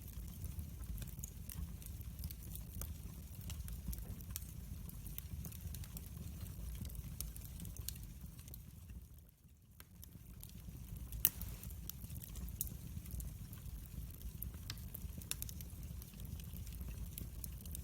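Wood fire burning in a fireplace: a steady low rumble with scattered crackles and pops, one sharper pop a little past halfway. The sound dips briefly just before that pop.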